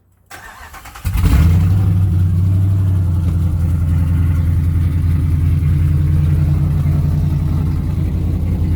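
Cold start of a cammed Ram pickup's engine with the exhaust cutouts open. The starter cranks briefly, and the engine catches about a second in with a burst of revs. It then settles into a loud, steady cold idle through the open cutouts.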